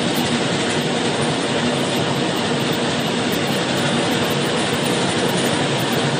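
Loaded freight wagons of a long goods train rolling past on the rails, a steady rumble with no break.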